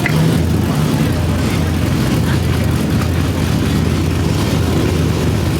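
Dodge Charger SRT8's V8 engine and exhaust running steadily while driving: a loud, constant low note with road noise over it.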